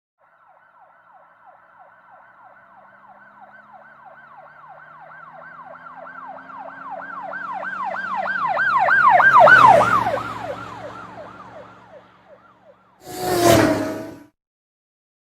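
Emergency vehicle siren on a fast yelp, wailing up and down about four times a second, growing louder as it approaches, then fading as it passes, over a low engine hum. A short, loud burst of noise follows near the end.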